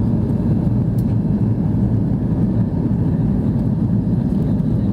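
Steady low rumble of an Airbus A330-300's Rolls-Royce Trent 700 jet engines and airflow, heard from inside the cabin.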